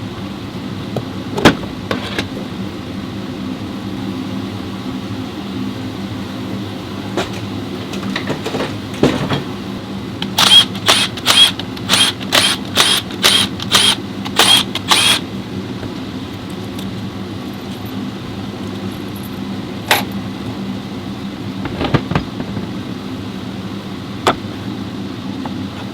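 Workshop sounds of an automatic transmission being worked on: a steady hum, scattered metal clicks and knocks, and around the middle a run of about ten short, sharp bursts from an air tool, roughly two a second.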